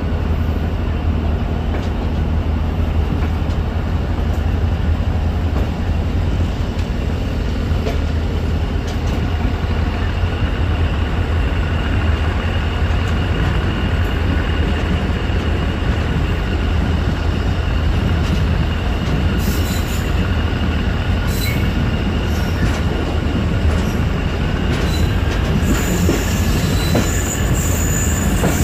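Karachi Circular Railway passenger train running along the main line, heard from aboard: a steady heavy low rumble with a thin, steady high-pitched whine from the wheels, and a few brief clicks near the end.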